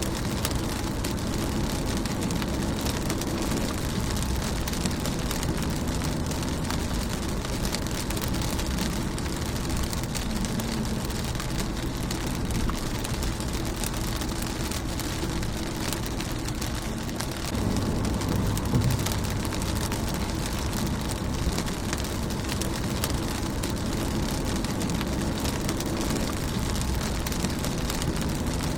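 Rain falling on a car's windshield and bodywork: a steady patter made of many small drop hits over a low rumble. The rumble swells for a couple of seconds about two-thirds of the way through.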